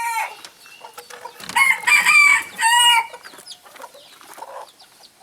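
A rooster crowing: the falling end of one crow at the start, then a full cock-a-doodle-doo about a second and a half in that ends on a long falling note. Soft clucking from other chickens runs between the crows.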